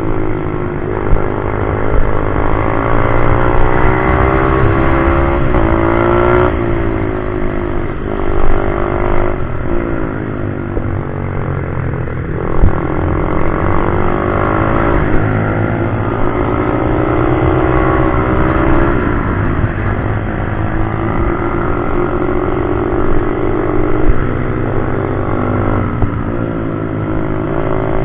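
Pit bike's small single-cylinder four-stroke engine at speed around a track. Its note climbs under throttle, then drops sharply at shifts and when the throttle is closed for corners, over and over.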